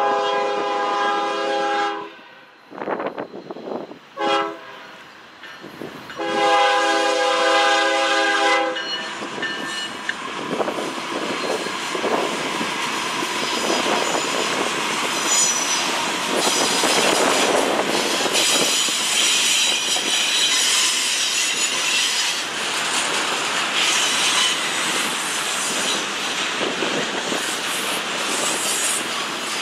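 Diesel freight locomotive horn sounding a long blast, a brief toot, then another long blast, followed by the train rolling past with steady rail noise and high-pitched wheel squeal.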